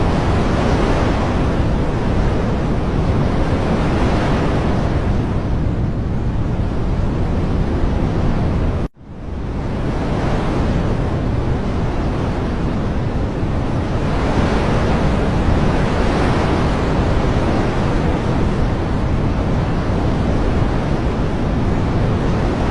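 Continuous loud rushing noise of a nature-ambience track, swelling and easing every few seconds. It cuts out abruptly for a split second about nine seconds in, then fades back up, like a loop splice.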